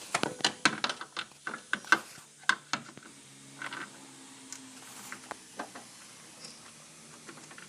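Sharp metallic clicks and clacks of hand tools working on a car's front strut assembly. They come thick and irregular for the first three seconds, then fall to occasional single clicks.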